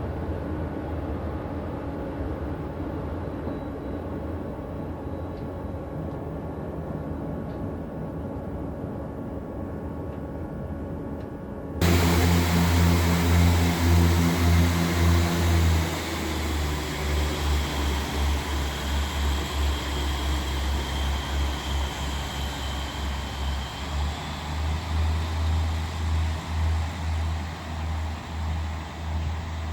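Diesel train running: a steady engine hum with a low rumble, then after a sudden cut about 12 s in, a much louder train engine close by with a low throbbing that pulses unevenly, its engine tones dropping away about 16 s in.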